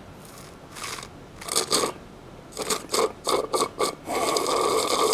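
Rasping, scraping strokes: a run of short strokes, some in quick pairs, then one longer stroke lasting over a second near the end.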